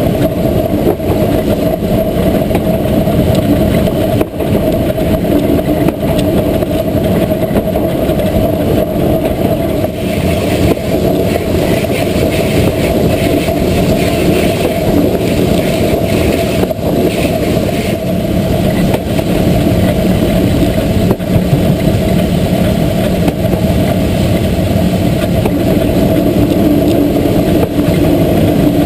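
Train running along the track at speed: a loud, steady rumble, with a brighter rattle from about ten to eighteen seconds in.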